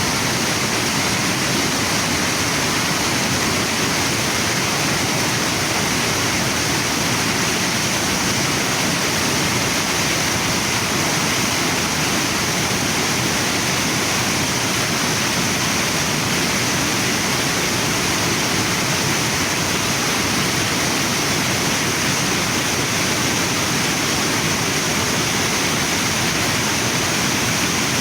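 Waterfall and river water rushing without a break, a steady, even sound from start to end of the stretch.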